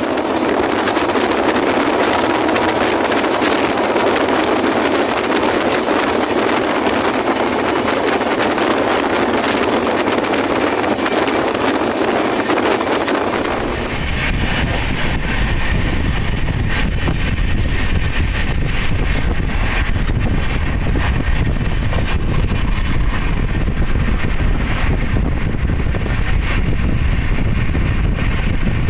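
Passenger express train running at speed, heard at its open coach door: a loud, steady rush of wind and wheel-on-rail running noise. About halfway through, the rush gives way to a deeper rumble.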